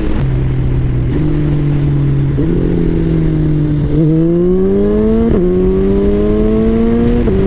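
Suzuki Hayabusa's inline-four engine through an Akrapovič full-system exhaust under way, its note climbing and falling in pitch with an abrupt jump at each of several gear changes.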